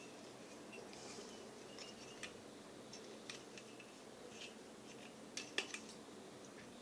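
Faint, scattered light clicks and small metallic ticks. A quick run of sharper clicks comes about five and a half seconds in.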